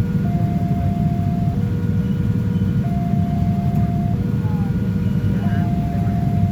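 Level-crossing warning alarm sounding a two-tone signal that alternates between a higher and a lower tone, each held about a second and a quarter, over a steady low rumble.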